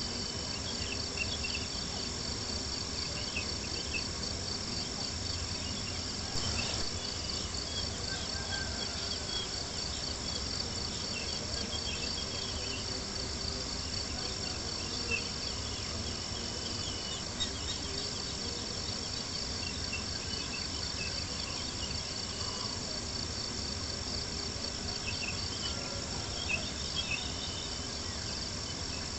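Crickets chirping in a steady, fast-pulsing chorus, with a few scattered soft pops and crackles from a campfire.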